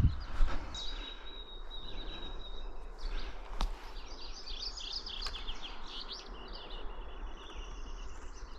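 Several wild songbirds singing and calling at once in a spring chorus, with overlapping high chirps and trills. A thin, steady whistled note is held for about two seconds early on, over a low background rumble.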